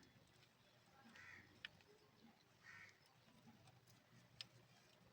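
Near silence, with two faint short bird calls about a second and a half apart and a couple of faint small clicks.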